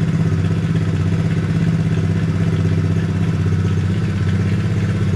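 Hawk 110cc ATV's small single-cylinder four-stroke engine idling steadily on a freshly swapped carburettor. The idle is still set slightly high, enough that the ATV creeps a little.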